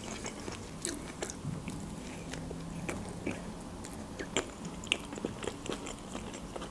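Close-miked chewing of a soft bun: faint wet mouth clicks and smacks, scattered and irregular.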